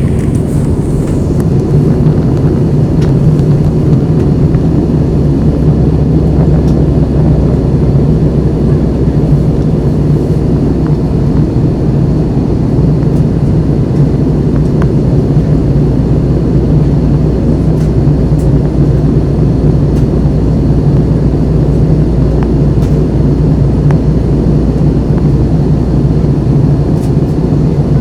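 Steady drone of an Airbus A320 in flight heard from inside the cabin: engine and airflow noise with a low, even hum.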